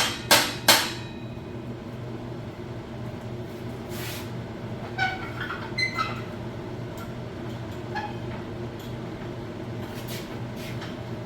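Two sharp hammer blows on steel in the first second, driving a pin out of a grapple cylinder's worn rod clevis, then a few light ringing metal clinks about halfway through, over a steady low hum.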